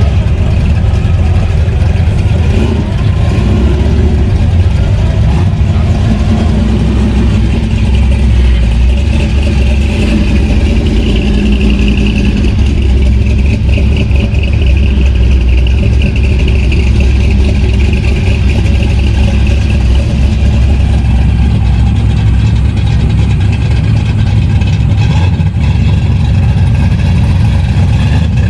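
A car engine running loudly and steadily with a deep, even rumble.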